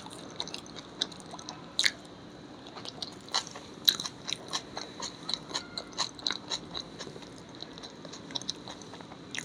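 A person chewing food close to the microphone: a run of short, irregular mouth clicks, with sharper bites about two and four seconds in.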